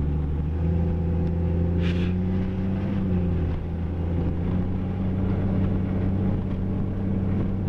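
1995 Jeep Grand Cherokee's 4.0-litre straight-six engine running steadily under way, heard from inside the cabin as a low, even hum.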